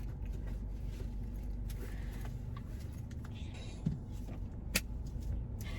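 Car cabin noise: a steady low rumble of the car, with a couple of short clicks about four and five seconds in.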